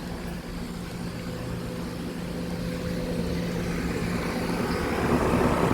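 Central air conditioner's outdoor condensing unit running with a steady hum and a harsh, angry sound, growing louder with a rushing of air near the end.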